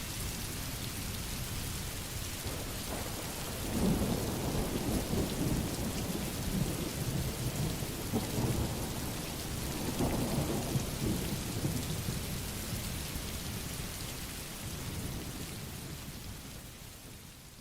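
Steady rain with low rolling thunder that swells a few times, then fades out near the end.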